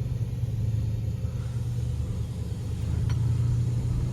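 Dodge Ram's Hemi V8 idling: a steady low rumble.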